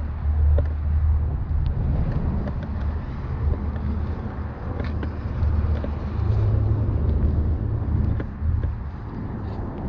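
Vehicle engine rumbling unevenly while riding, with scattered small knocks and rattles.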